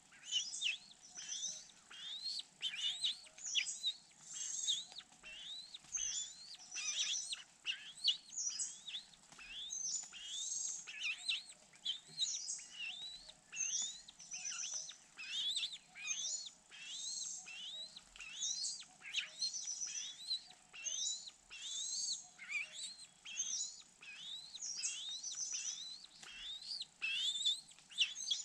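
Birds chirping without a break: a dense run of short rising calls and quick trills, several a second.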